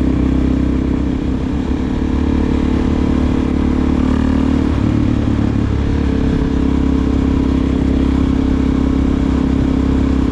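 Suzuki DR-Z400SM single-cylinder four-stroke running through a Delkevic aftermarket exhaust while the bike cruises at a steady engine note. About halfway through, the engine note briefly drops and changes before settling back to a steady note.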